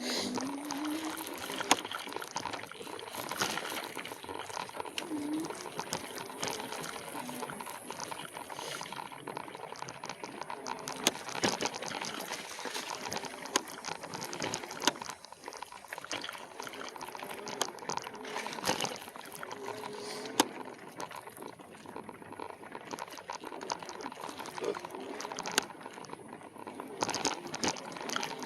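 Continuous crackling and rustling of dry leaves, twigs and brush as an e-bike is moved along a narrow wooded trail, with dense small clicks and a few sharper ticks and rattles.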